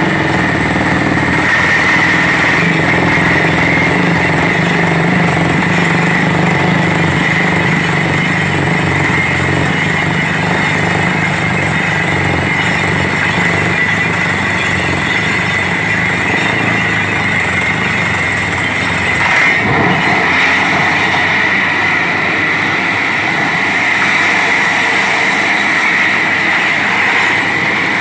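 Borewell drilling rig running loudly and steadily, engine and drilling noise with a constant high whine, changing briefly a little after halfway.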